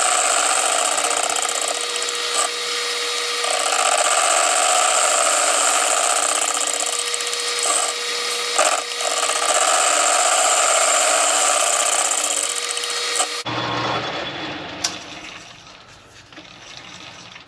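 Metal lathe turning and cutting the brazed spindle housing of a Woods finish mower: a steady whine with a hissing cut, stopping abruptly about thirteen seconds in.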